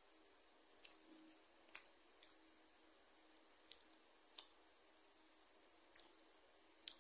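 Faint mouth clicks and lip smacks of someone chewing food, about ten short ticks scattered irregularly, over quiet room tone with a faint steady hum.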